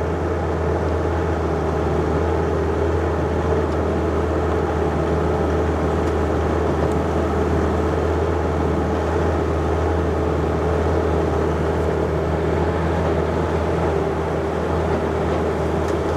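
John Deere 50ZTS mini excavator's diesel engine running steadily, a constant low drone with a steady higher tone above it.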